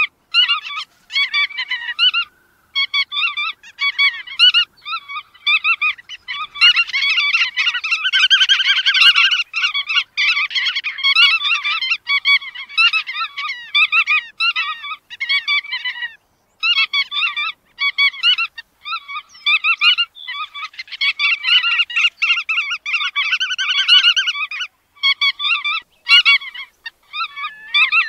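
Bar-tailed godwits calling: a dense, rapid run of short repeated calls with only brief breaks.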